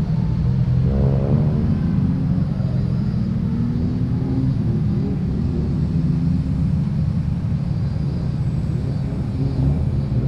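Car engines running and pulling away as cars roll out of a meet, with a steady low exhaust rumble. One engine revs briefly about a second in.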